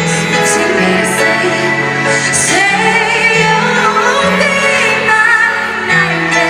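Live pop ballad: a woman singing long, wavering held notes and runs over sustained band accompaniment chords.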